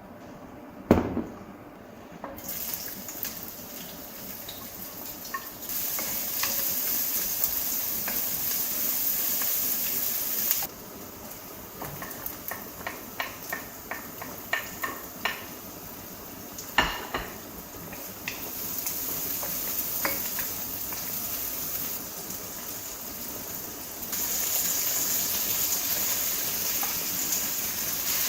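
Water running from a tap into a sink in spells, with dishes and cutlery clinking in between. There is a single thump about a second in.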